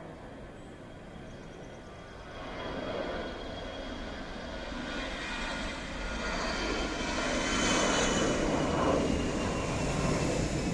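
Airbus A320 twin-engine jet airliner taking off, its turbofan engines growing steadily louder and loudest about eight seconds in, with a faint high whine over the deep rumble.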